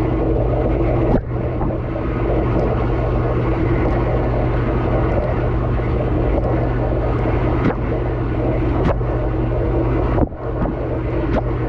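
Dishwasher running mid-cycle, heard from inside the tub: the steady hum of the circulation pump under the rush of water spraying from the spray arms, with a couple of brief dips.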